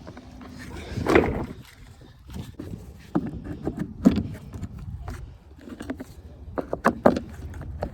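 Scattered clicks and knocks from handling the hand pump and inflatable paddle board gear once inflation is finished, over a low, uneven wind rumble on the microphone.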